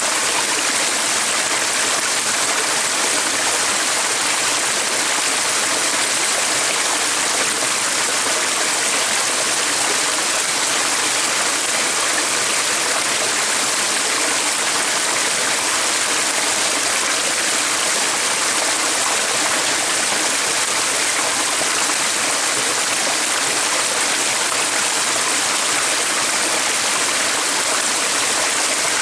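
Flowing water, such as a stream, rushing steadily and evenly.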